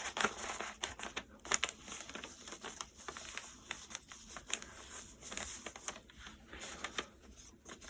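A sheet of paper being folded and creased by hand: irregular crinkling and rustling with quick sharp crackles as the fold is pressed flat.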